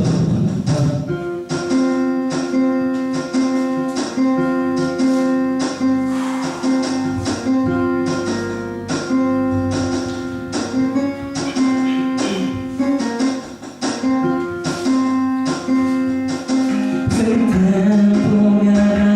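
Music led by plucked guitar, with notes struck in a steady rhythm over held tones.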